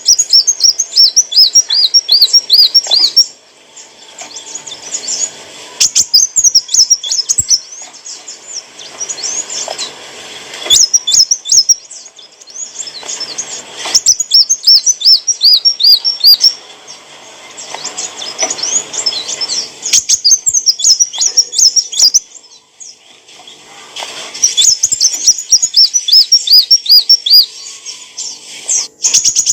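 A sunbird singing in repeated bursts of rapid, high, twittering chirps. Each burst lasts a few seconds, with short pauses between.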